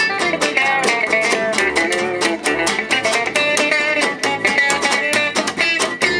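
Live jazz manouche (gypsy jazz) band playing: guitars strumming a fast, steady rhythm under a moving melodic line.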